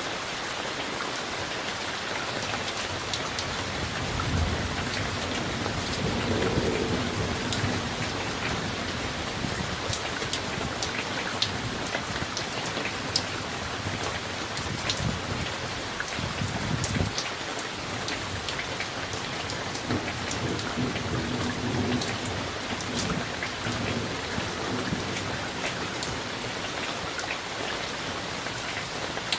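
Steady summer rain with sharp drips close by, and thunder rumbling low in several spells, the first about four seconds in and another around twenty seconds in.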